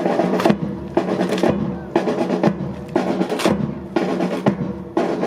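Drum-led march music: snare and bass drums over steady pitched tones, with strong beats about twice a second.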